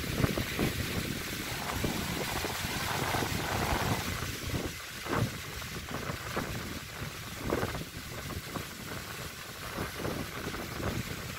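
Strong, gusty windstorm blowing hard, with wind buffeting the microphone; the gusts surge and ease, rising about three seconds in and again around five and seven and a half seconds.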